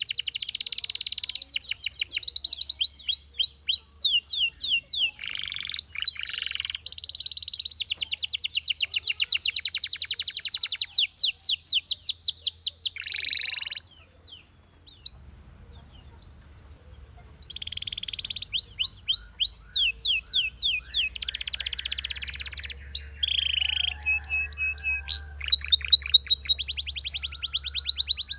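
Belgian canary singing: fast trills and rolls of rapidly repeated high notes. The song breaks off for a few seconds around the middle, then resumes.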